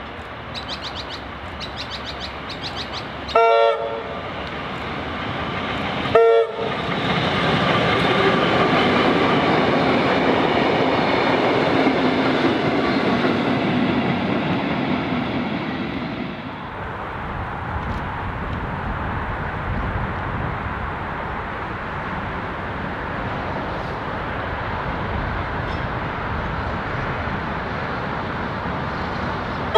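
Heritage Tait electric suburban train sounding two short horn blasts about three seconds apart as it approaches, then running past with loud, steady wheel and rail noise. The noise drops away abruptly partway through to a quieter, steady background, and another short horn note starts at the very end.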